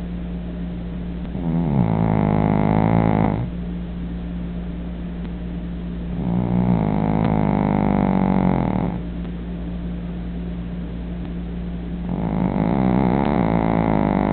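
Dog snoring in its sleep: long, buzzing, pitched snores of two to three seconds each, coming about every five seconds, three in all, over a steady low hum.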